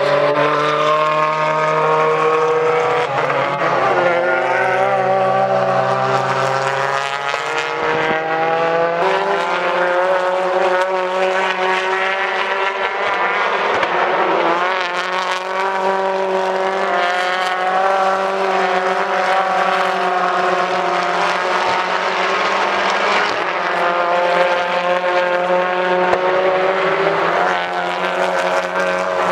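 Several BTCC touring car engines running together at fairly steady revs, their pitch shifting now and then.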